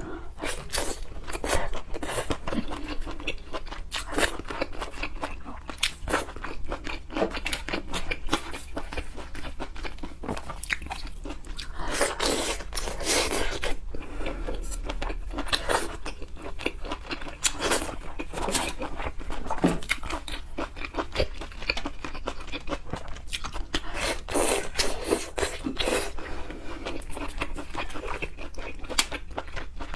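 Close-up wet chewing and crunching of seafood, scallop and sea-snail meat, with many quick smacks and crunches that come thicker in two stretches.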